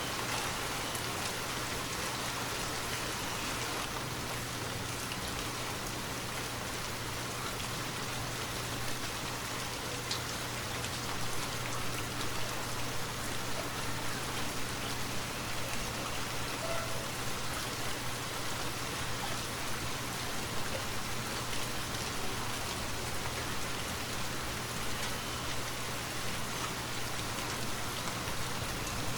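Steady rainfall in a forest, an even hiss of rain with a few louder individual drops.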